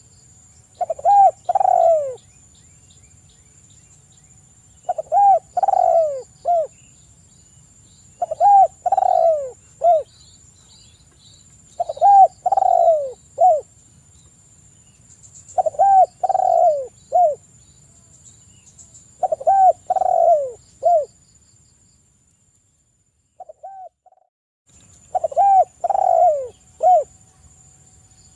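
Spotted dove (tekukur) cooing in vigorous song: a phrase of three to four falling coos about every three to four seconds, with a faint steady high-pitched tone behind it.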